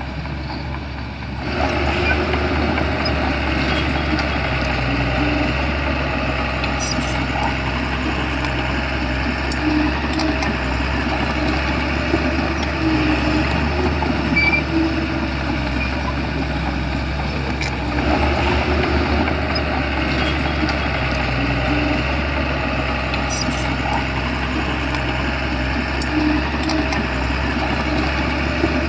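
Shantui bulldozer's diesel engine running steadily under work, stepping up in loudness about a second and a half in, with a few metallic clanks along the way.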